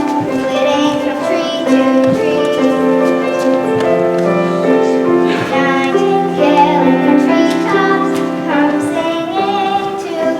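Children singing a song from a stage musical, holding long notes over instrumental accompaniment.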